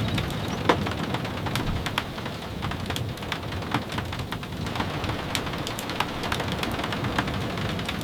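Steady rain with a low rumble underneath, dotted with scattered sharp taps a few times a second.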